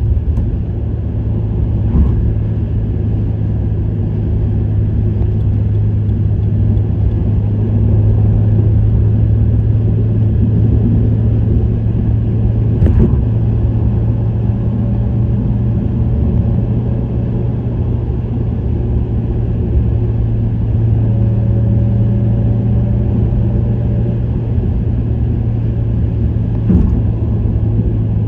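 Subaru WRX STI's turbocharged flat-four, with an STI Performance muffler, droning steadily at constant revs while cruising, mixed with tyre and road noise. Three brief knocks come spread through it.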